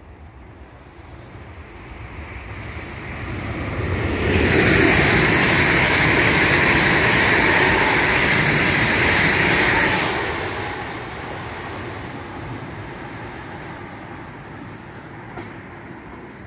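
Trenord regional electric train passing close by: the noise of the wheels on the rails builds over a few seconds, stays loud for about six seconds as the train goes by, then fades away.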